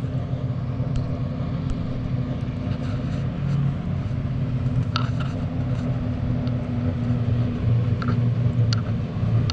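A vehicle engine running steadily at low revs, a deep even rumble, with a few faint ticks over it.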